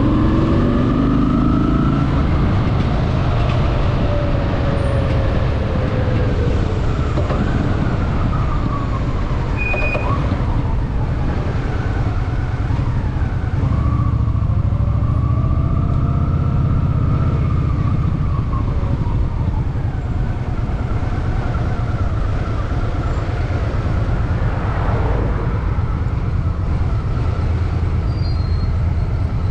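Honda Shadow VT750's V-twin engine running on the move, its pitch rising and falling twice as the bike accelerates and eases off, over a steady low rumble, with road traffic around.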